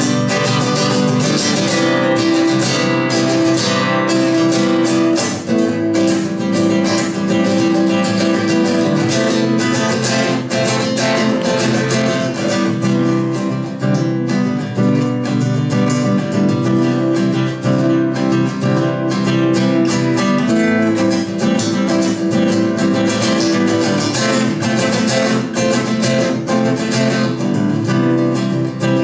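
Acoustic guitar strummed steadily in an instrumental break of a sung-poetry song, with no voice.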